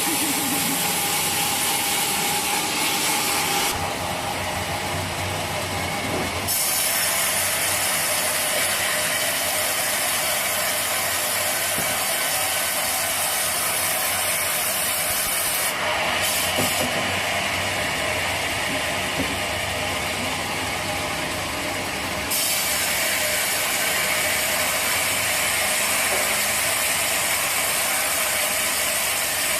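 Sawmill machinery running steadily under load, a dense mechanical clatter and rush. The hiss on top cuts out and comes back abruptly a few times.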